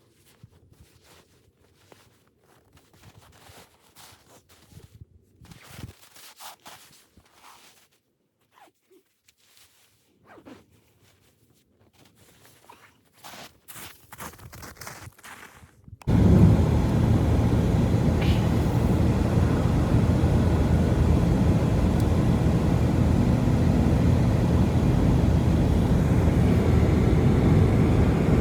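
Faint scattered rustles and clicks, then, about sixteen seconds in, a sudden loud, steady, low rumbling noise that continues.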